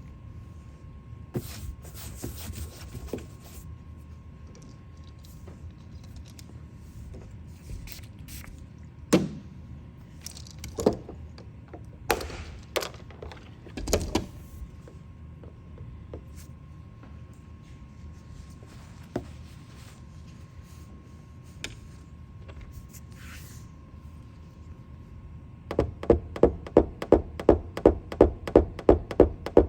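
Dent repair work on a car's roof panel: scattered knocks and clicks, then near the end rapid, even tapping on the panel, about four taps a second, typical of tapping down high spots after a glue pull. A faint steady hum runs underneath.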